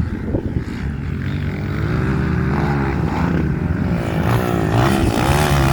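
Off-road motorcycle engine running and revving, its pitch rising and falling repeatedly and growing louder from about two seconds in.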